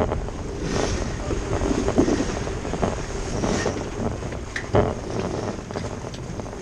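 Wind buffeting the microphone over water rushing along the hull of a small sailing dinghy under way, with a couple of short sharp noises about two seconds in and near five seconds in.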